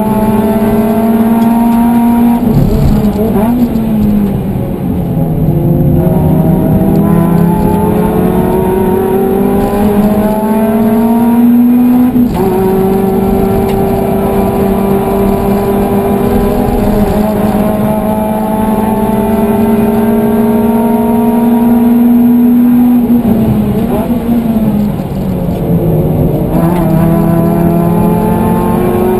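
Suzuki Swift Sport ZC32S's 1.6-litre four-cylinder engine heard from inside the cabin at race pace. The note climbs steadily under full throttle, drops sharply once about twelve seconds in as it shifts up, and twice falls and wavers with throttle blips as it brakes and shifts down for corners, a few seconds in and near the end.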